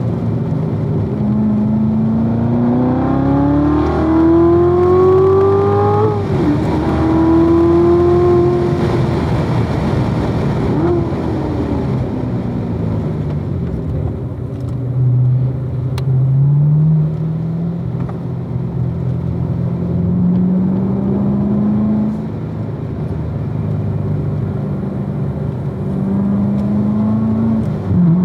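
2016 Corvette Z06's supercharged 6.2-litre V8 being driven hard on a race track: the engine note climbs through the revs and drops sharply at upshifts, eases off briefly about a third of the way in, then pulls up again.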